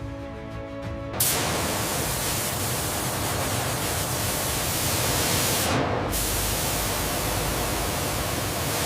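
Background music briefly, then from about a second in a loud, steady hiss of noise like spraying. It dips briefly in its highest part around six seconds in.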